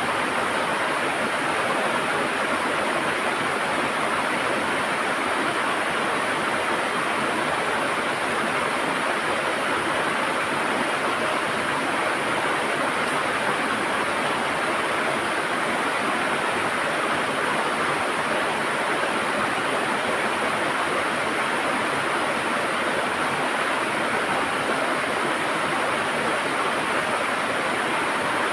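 River water flowing and gurgling steadily over rocks, a constant rushing sound with no changes.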